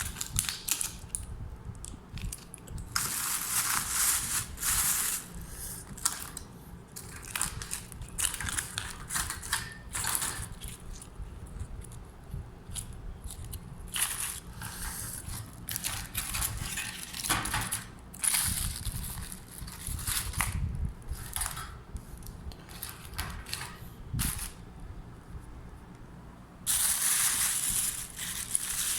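Irregular crinkling and rustling from hands handling something, in bursts of varying length, with a longer, louder stretch near the end.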